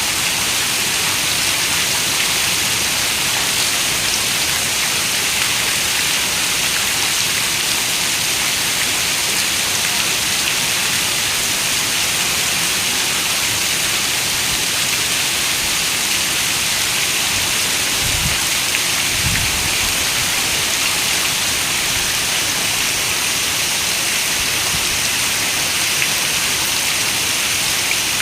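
Heavy rain falling steadily on a window: a dense, even hiss. There is a brief low rumble about two-thirds of the way through.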